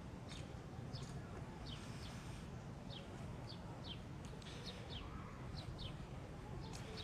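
Small birds chirping: short, high, downward-sliding chirps, one or two a second, faint over a steady low rumble.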